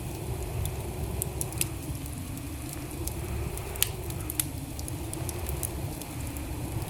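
Wood fire burning in a fireplace: a steady low rumble of the flames with scattered sharp crackles and pops of the burning logs at irregular intervals.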